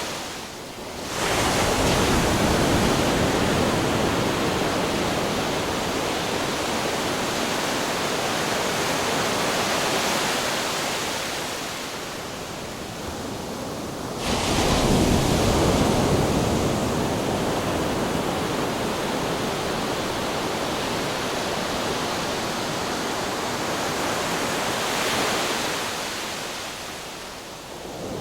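Ocean waves crashing on rocks: a steady rushing surf, with a wave breaking in a sudden loud surge about a second in and another about fourteen seconds in, each slowly washing back down.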